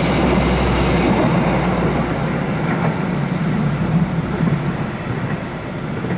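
KAI passenger train's stainless-steel coaches passing close by, a loud, steady rumble of wheels on rail that eases off slightly near the end.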